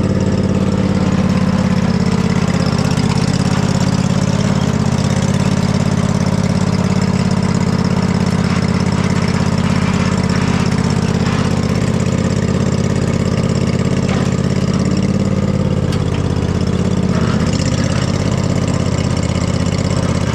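Husqvarna riding mower engine running steadily, its pitch wavering slightly now and then.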